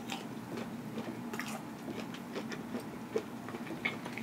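Close-miked chewing of deep-fried seafood with the mouth closed: soft, irregular wet clicks, over a faint steady hum.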